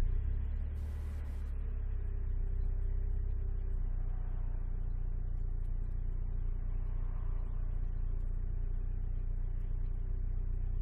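Alfa Romeo 156 being driven, heard from inside the cabin: a steady low rumble of engine and road noise.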